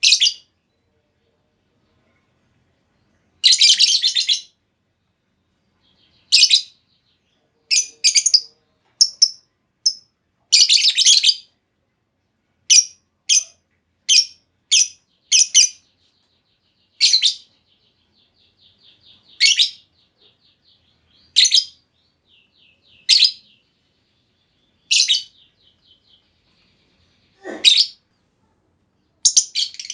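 Female lovebird calling: sharp, high chirps repeated every second or two with clean silence between, a couple of longer bursts of rapid chatter, and a faint fast rattling trill between the calls in the second half.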